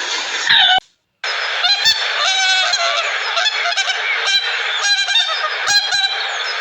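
A flock of birds calling together, many overlapping loud calls, after a brief silent break about a second in.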